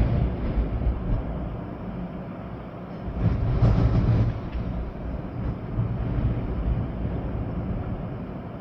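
Storm wind gusting with rain, a heavy low rumble throughout and a stronger gust about three seconds in.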